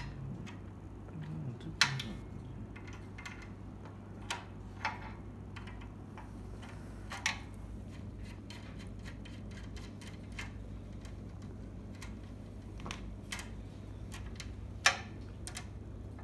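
Light clicks and knocks of parts and tools being handled at irregular intervals, the sharpest about two seconds in and near the end, over a steady low hum.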